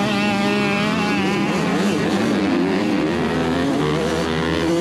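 Several motocross dirt bike engines running together on the track, their pitches rising and falling as riders work the throttles.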